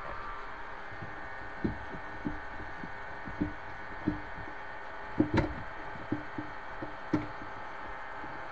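Irregular wooden knocks and taps, about ten over several seconds, with the loudest pair about five seconds in, from handling a wooden kitchen cabinet panel. A steady faint hum runs beneath.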